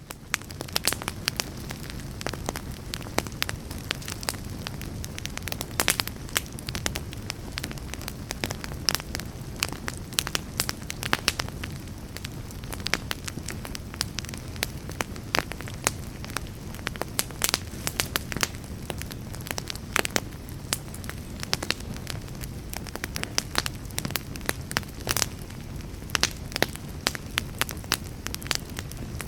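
Campfire burning: constant crackling with frequent sharp pops over a low, steady rumble of flames, fading in quickly at the start.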